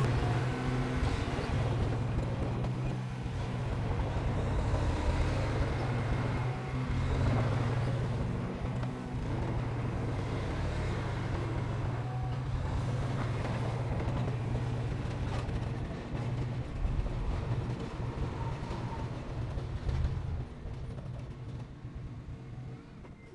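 Heavy earthmoving machine's diesel engine running steadily with a low drone and scattered clanks, growing fainter in the last few seconds.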